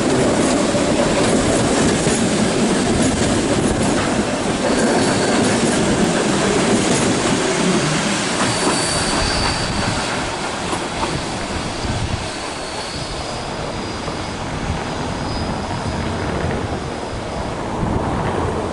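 Passenger train passing below and running away along the tracks: wheels rumbling and clattering over the rails, with a faint high squeal from the wheels now and then. The sound is loudest in the first half and eases off after about ten seconds.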